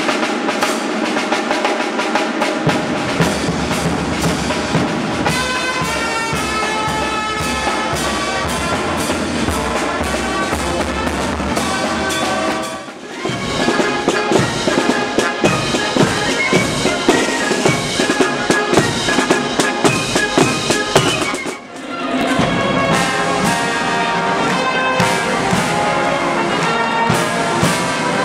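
Military band music: brass (trumpets and trombones) with drums playing marches. The music breaks off and changes twice, about 13 and 21 seconds in.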